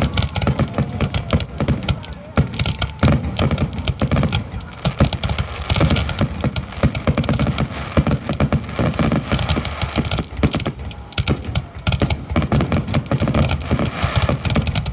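Aerial fireworks barrage: a dense, rapid run of booms and crackling bangs, many per second, the steady rattle of a finale.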